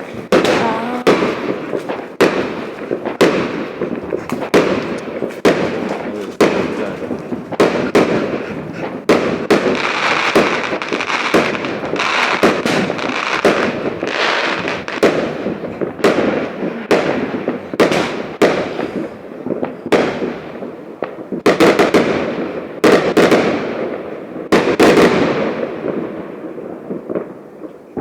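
New Year fireworks going off all around: a dense, continuous run of overlapping bangs and echoing booms over a steady crackle, thickest near the end.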